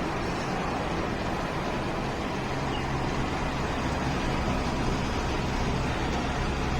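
Truck engine running steadily while driving, with continuous road noise.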